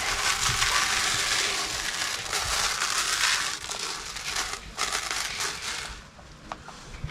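Crunching, rustling noise in several stretches with short breaks, stopping about six seconds in.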